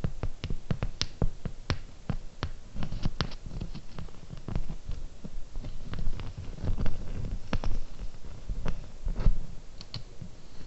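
ASMR fingernail tapping on hard objects close to the microphone: irregular sharp clicks, several a second, over soft low thumps and rubbing.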